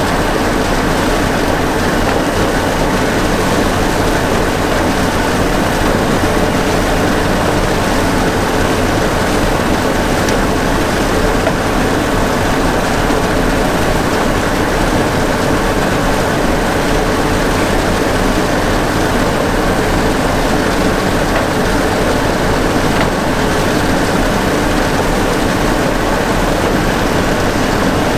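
A vehicle engine running steadily: a constant, unbroken drone.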